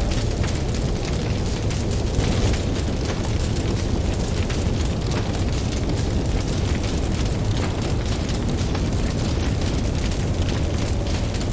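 Campfire crackling with many small, sharp pops over a steady low rumble of ocean waves.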